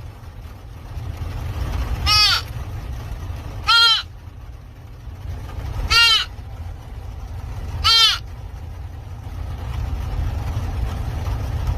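An animal's short high-pitched calls, four of them about two seconds apart, each rising and then falling in pitch, over a steady low rumble.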